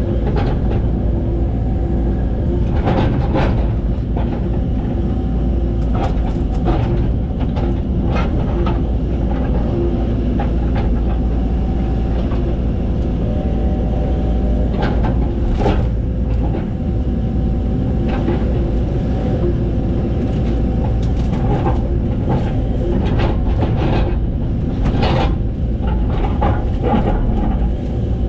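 Excavator's diesel engine running steadily under work, with irregular knocks and clanks from the bucket and machine as it digs.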